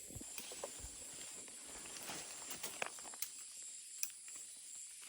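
Rainforest ambience: a steady high-pitched drone of insects, with scattered soft clicks and knocks that fit footsteps on the forest floor.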